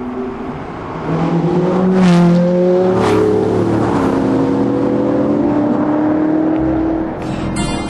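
Supercar engines accelerating hard, the engine notes rising and dropping back with gear changes. Music comes in near the end.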